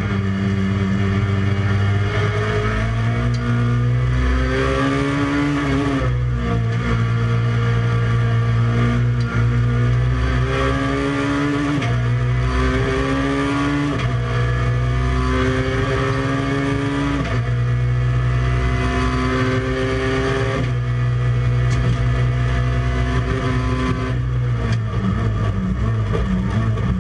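Peugeot 106 hillclimb race car's four-cylinder engine, heard inside the cockpit, pulling hard under full throttle. Its pitch climbs steadily through each gear and drops sharply at each gear change, several times over.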